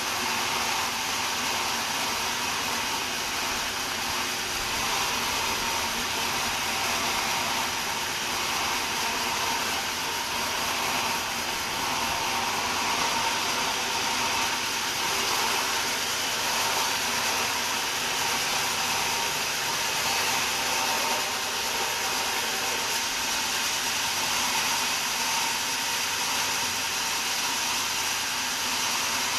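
Sawmill saw running steadily while sawing a wadang log: a continuous, unbroken hiss with a faint steady whine.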